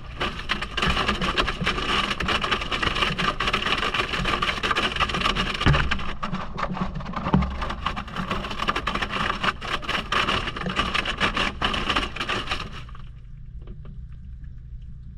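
Maytag washing machine mid-wash, heard from a camera inside the drum: water sloshing and many knocks as the load tumbles. Near the end the churning stops suddenly, leaving a low steady hum.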